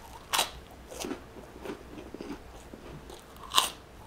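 Crisp shrimp chips (prawn crackers) being bitten and chewed. A sharp crunch comes about half a second in, then lighter crunches, and the loudest crunch comes near the end.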